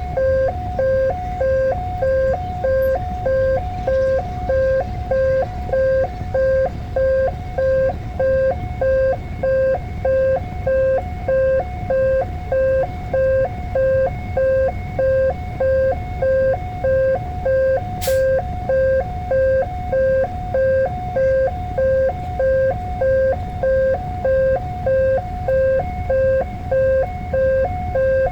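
Indonesian railway level crossing's electronic warning alarm sounding continuously: a two-tone beeping signal repeating about one and a half times a second, warning that a train is approaching. A single sharp click is heard about eighteen seconds in.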